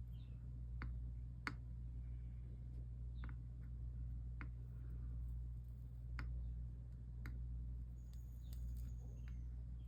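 Stained glass soldering work: a few light, scattered clicks and taps, about six in ten seconds, over a steady low hum.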